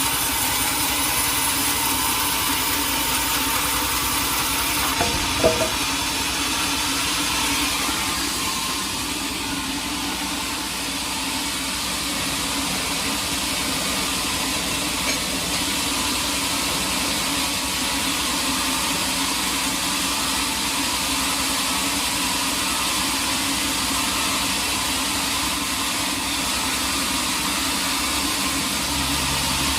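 Sawmill machinery running steadily: an even motor hum with no clear cutting strokes, and a brief knock about five seconds in.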